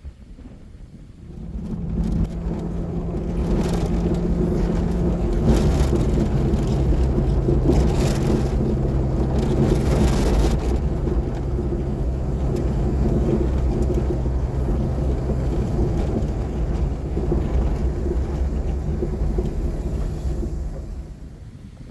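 A motor engine running with a steady low hum. It comes up about two seconds in, holds, and fades away near the end, with gusts of wind on the microphone in the first half.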